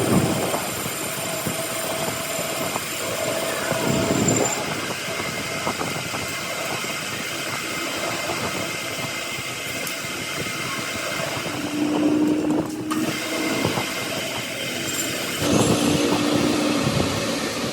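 Heavy machinery running with a steady mechanical rumble and rattle. A low hum comes in twice, about twelve seconds in and again a few seconds later.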